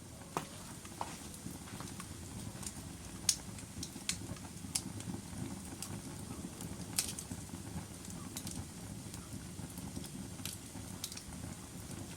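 Wood fire burning in a fireplace: a steady low rumble of flames with irregular sharp crackles and pops from the burning logs, the loudest pops about three seconds in and about seven seconds in.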